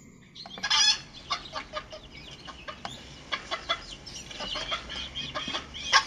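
Domestic hens clucking: a run of short, pitched clucks, louder about a second in and again near the end.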